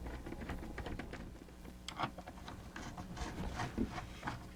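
Scattered light clicks and taps of plastic parts being handled and fitted back into a mechanical animated display during reassembly.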